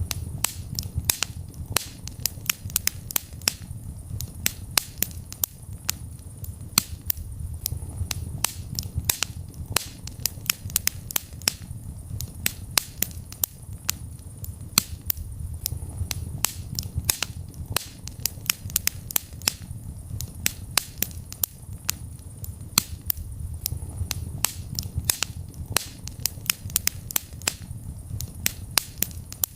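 Wood fire in a fireplace crackling: frequent, irregular sharp pops and snaps over a low steady rumble of the flames.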